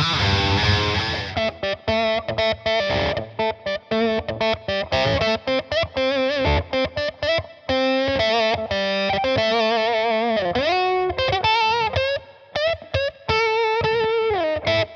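Distorted electric guitar played through a Hotone Soul Press wah/volume pedal: a held chord at the start, then quick single-note lead phrases with a few string bends.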